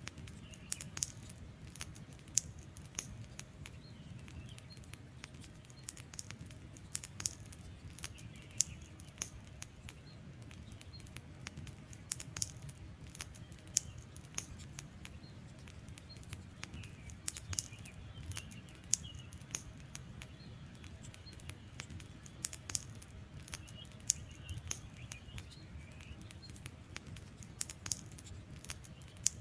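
Wood fire crackling, with frequent sharp irregular pops over a low, steady rush of burning.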